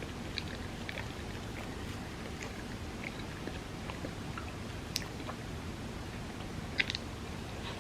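Close-miked chewing of soft, creamy crepe cake: quiet wet mouth sounds with scattered small clicks, plus a sharper click about five seconds in and a short cluster of clicks near the end.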